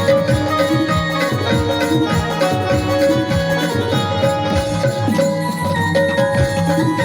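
Electronic keyboard playing held melody notes over a fast, steady drum rhythm: live Konkani folk music.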